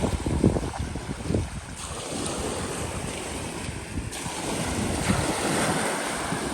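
Small bay waves washing onto the beach, a hiss of water that swells and peaks near the end, with wind gusting on the microphone in the first couple of seconds.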